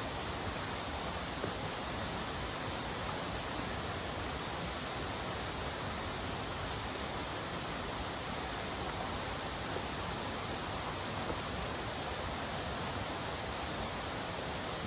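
Steady rushing of a mountain stream and waterfall, an even hiss with a few faint ticks.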